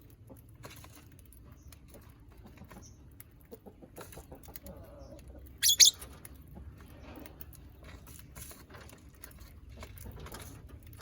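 A colony of lovebirds feeding: many soft scattered clicks of pecking and cracking food, with one short, shrill bird call a little past halfway.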